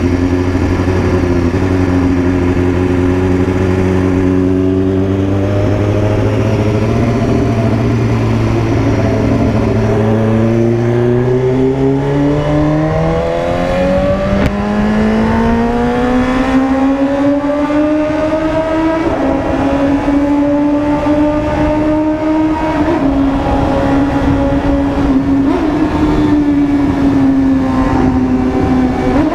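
BMW S1000RR's inline-four engine under way, pulling up through the revs: its note climbs steadily in pitch for about ten seconds, then holds high with small ups and downs.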